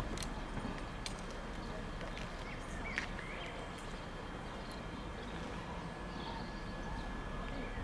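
Class 73 locomotives hauling a train slowly over pointwork, a steady low rumble with a few sharp clicks, and birds chirping briefly about three seconds in.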